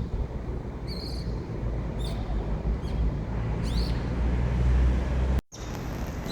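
A bird calling with short high chirps about once a second, some sweeping up and down, over a steady low rumble that swells near the end. The sound cuts out for a moment shortly before the end.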